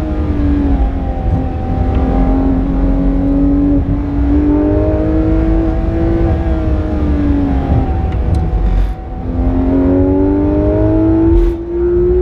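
Porsche 991.2 GT3 RS's naturally aspirated 4.0-litre flat-six, heard from inside the cabin, pulling hard in a high gear with its note climbing slowly. About eight seconds in it briefly drops as the throttle lifts, then climbs again, over a constant low rumble of road and tyre noise.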